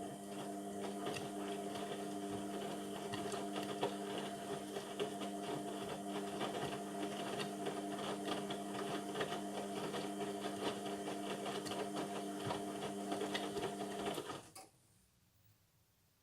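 Indesit MTWC71252WUK washing machine running mid-cycle: a steady mechanical hum with a busy whirring texture that cuts off suddenly about 14 seconds in.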